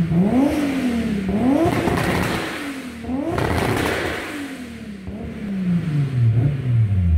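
Modified Peugeot 106 S16's four-cylinder engine being revved: the revs swing up and down three times, then sink slowly near the end.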